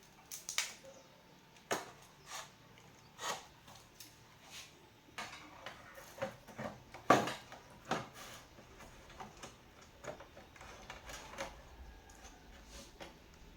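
Irregular sharp clicks and knocks of small objects being handled and set down, the loudest about seven seconds in.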